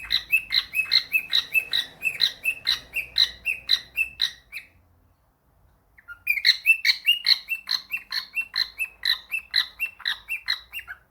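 Cockatiel chirping in a fast, even run of short calls, about four or five a second. The run breaks off partway through, and after a pause of about a second and a half a second run starts up.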